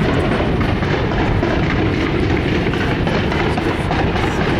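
Fireworks display going off in a dense, continuous barrage: a steady low rumble of many shell bursts with sharp crackling laid over it.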